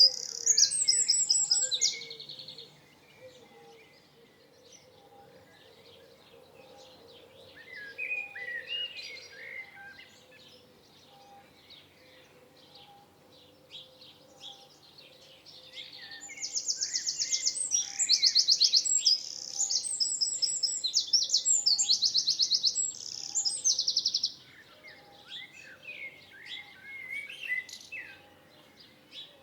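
Songbirds singing: loud, rapid, high trilled phrases come in bursts at the start and again for several seconds past the middle, with softer, lower chirps and warbles from other birds in between.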